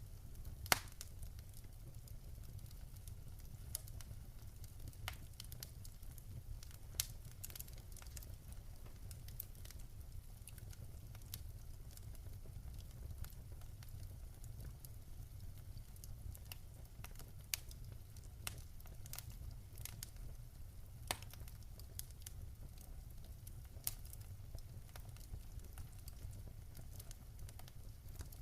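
Wood fire crackling in a fireplace: irregular sharp pops and snaps over a steady low rumble, with a few pops louder than the rest.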